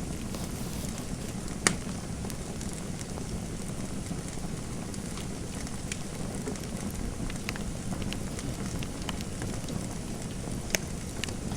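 Fireplace fire crackling: a steady low rumble and hiss with scattered small ticks, a sharp pop nearly two seconds in and another near the end.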